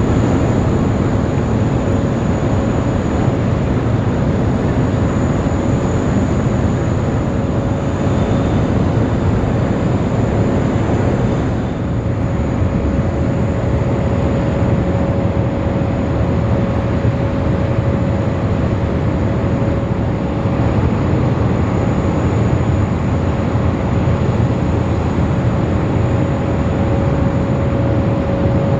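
Boeing 777X's GE9X turbofan engines running, a loud, steady jet noise with a constant whine held throughout.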